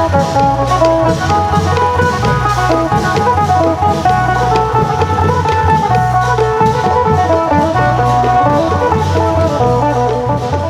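Isan phin lute playing a quick plucked melody over the steady beat of klong yao long drums and other percussion.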